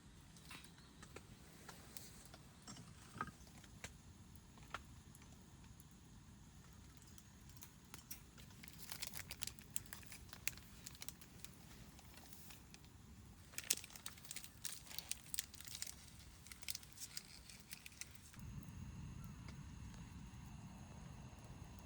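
Packaging crinkling and rustling in two bouts of quick crackles, over a faint steady background hiss; a low rumbling noise comes up near the end.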